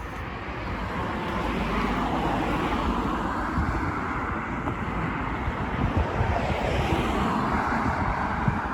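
Road traffic passing on a busy road: a rush of tyre and engine noise that swells about a second in and holds, with wind buffeting the microphone.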